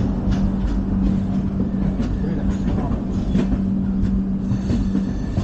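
LHB passenger coach running at speed on the track: a steady rumble with a constant low hum and irregular knocks from the wheels over the rails.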